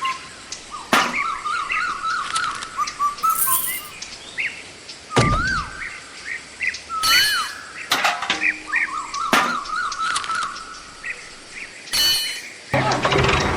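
Birds singing: repeated curling whistled phrases, broken by several sharp clicks or knocks. Near the end a small motor starts running steadily.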